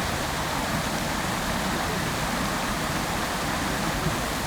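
Fountain water splashing down into its basin in a steady, even rush.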